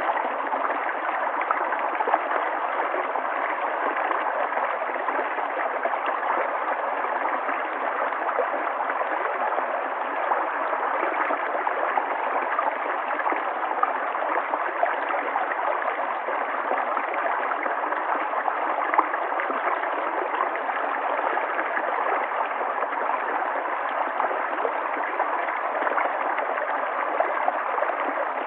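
River water flowing steadily, a continuous rushing and gurgling with small splashes flickering through it.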